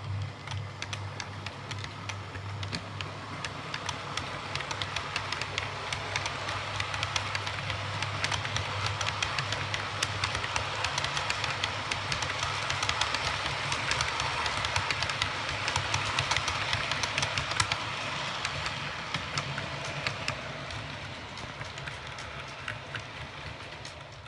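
Hornby OO-gauge HST model train running on track: a steady electric-motor whir with rapid, irregular clicking of the wheels over the rail joints. It grows louder toward the middle, as the train comes nearer, and fades near the end, over a steady low hum.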